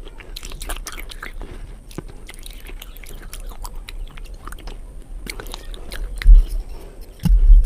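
Close-miked chewing with biting: a run of short wet clicks and smacks from the mouth. Two loud low thuds come near the end.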